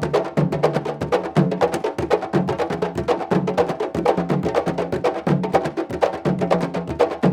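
Candombe drums playing a fast, steady rhythm: dense stick strikes and sharp wooden clicks, with low booming drum notes coming in about once a second.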